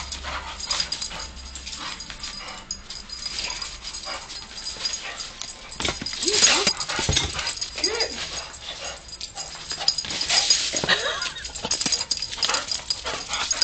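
Pit bull whining and yipping in short bent-pitch calls as it chases a laser dot, several of them about halfway through and again near the end, among many quick scuffs and clicks.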